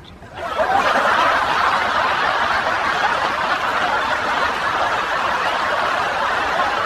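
A group of people laughing together, swelling up within the first second and then holding steady.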